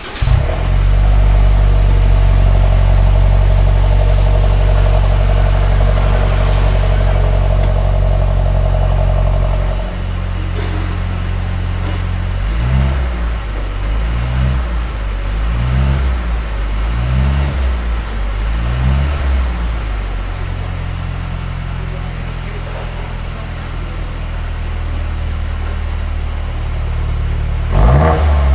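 Mercedes-Benz C300's M264 turbocharged four-cylinder engine breathing through a valved aftermarket Fi Exhaust system. It runs at a steady, loud fast idle typical of a cold start, drops to a lower idle about ten seconds in, then is blipped five times in quick revs. It settles back to idle and is revved again near the end.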